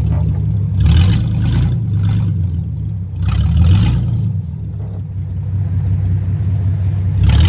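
Pickup truck engine running under load off-road, revving up in surges about a second in, around three and a half seconds in, and again near the end, over a steady low rumble.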